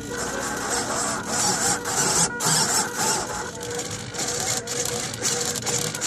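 DLA 112cc gasoline engine of a large RC Cessna 182 model running steadily, with a hissing, buzzing mechanical noise and two brief dips partway through.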